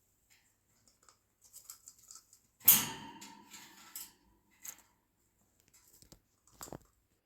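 Packaging of a gift being rustled and torn open: light crinkles, then a loud tearing rustle about three seconds in that lasts about a second, followed by a few sharp crackles.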